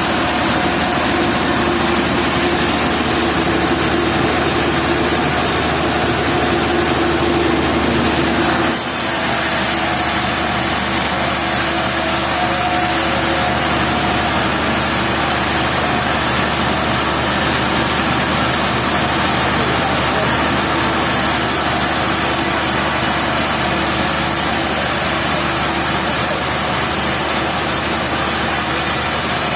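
Engine of sawmill machinery running steadily, with no sawing cut clearly heard; the sound changes abruptly about nine seconds in.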